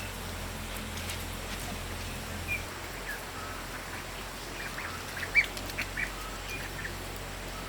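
Short bird calls over a steady background hum, with a quick cluster of calls about five to six seconds in.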